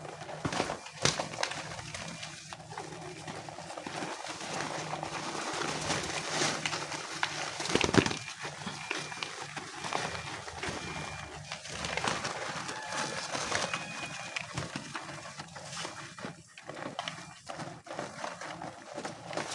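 A flock of homing pigeons feeding on scattered corn: many small pecking clicks and wing flutters, with cooing underneath. A single louder clack about eight seconds in.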